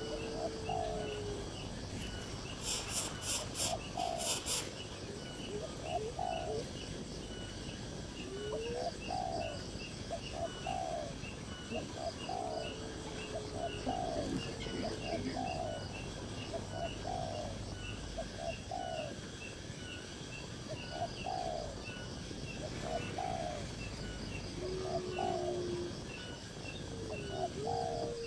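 Birds calling: short low hooked notes repeat about every second or two, with a few longer drawn-out gliding notes among them, over a steady rapid high-pitched ticking chirp. A brief burst of high clicking comes a few seconds in.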